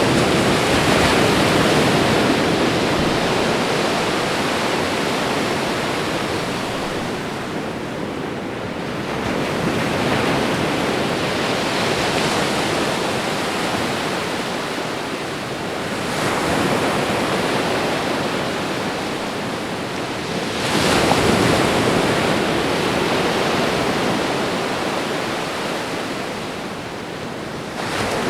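Ocean waves breaking and washing up on a shore, a steady rush that swells with each new wave every several seconds and fades between them.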